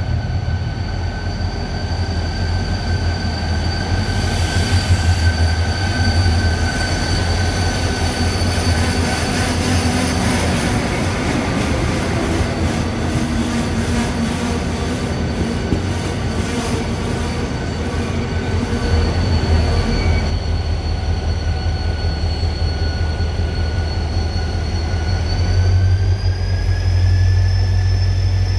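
A locomotive-hauled passenger train pulling into the platform: a heavy low rumble with its wheels rolling and squealing as the coaches pass, over a steady high whine.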